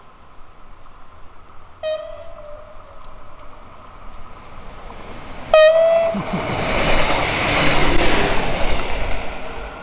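GW Train diesel railcar sounding its horn as it approaches: a short note about two seconds in, then a much louder blast a few seconds later. It then runs past close by, its rumble and rail noise swelling and fading, with a faint high whine at its loudest.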